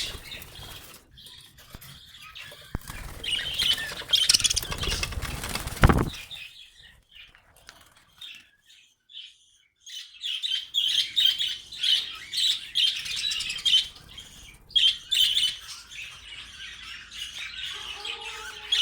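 Small pet birds fluttering their wings in bursts, then a brief quiet spell. After that comes a steady stream of short, high chirping calls through the second half.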